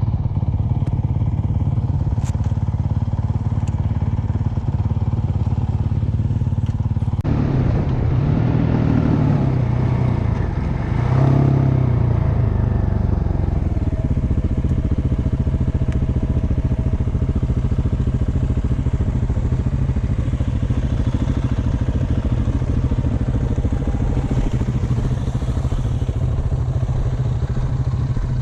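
Dirt bike engine running steadily under way, its note rising and falling between about a quarter and halfway through as the throttle is worked.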